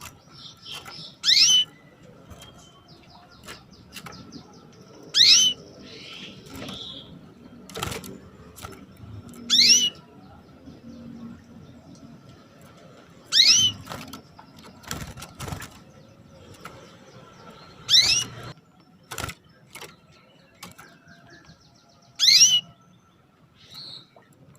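Female canary giving short "cuit" calls, one about every four seconds, six in all, each a quick sweep in pitch: the call a hen canary uses to call a male. A few sharp clicks fall between the calls.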